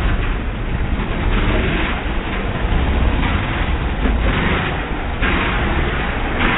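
Racing motorcycle engines running, a loud continuous noisy rumble that surges several times.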